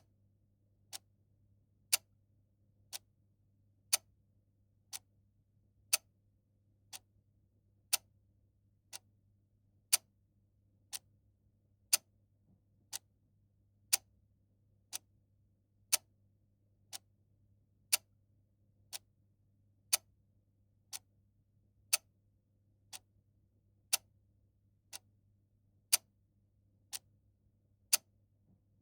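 Clock ticking exactly once a second, a louder tick alternating with a softer tock.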